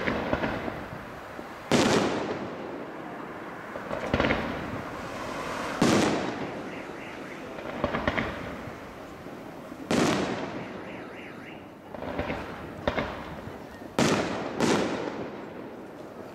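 Aerial firework shells bursting in a large display: a sharp bang about every four seconds, each echoing away, with a quick double bang near the end. Between the big bangs come smaller bursts of crackling.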